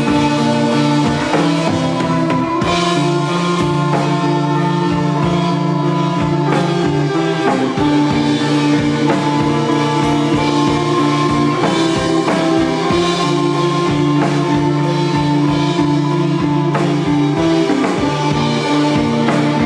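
Live rock band playing: electric guitar holding sustained chords that change every few seconds, over a steady drum kit beat.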